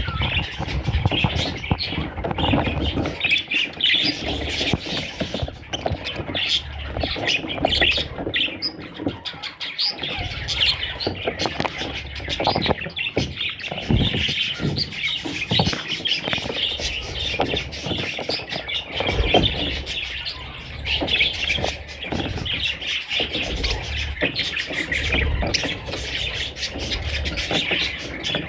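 Budgerigars chirping and chattering continuously in a dense stream of short, high chirps and squawks, with a low rumble underneath.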